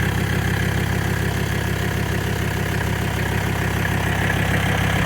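Mercedes turbo-diesel engine in a 1994 Toyota 4Runner idling steadily.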